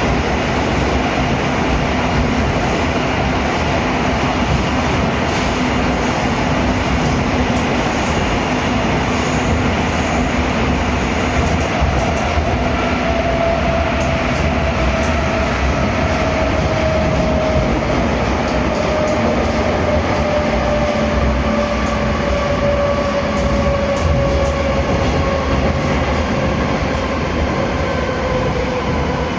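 Moscow Metro 81-740/741 'Rusich' train running between stations, heard from inside the car: a steady rumble and rush of wheels and running gear. Through the second half a whine slowly falls in pitch.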